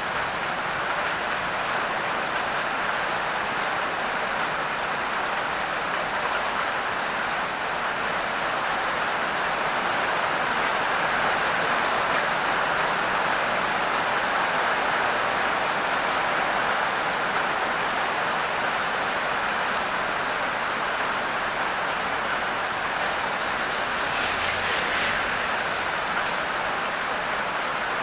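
Heavy rain pouring steadily, with a brief louder surge near the end.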